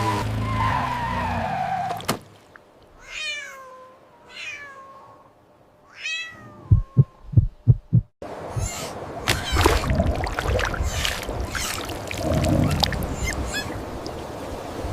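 A loud sound cuts off with a click about two seconds in. A cat then meows three times, each call sliding down in pitch, followed by a quick run of five low thumps and then several seconds of busy clattering, rustling noise.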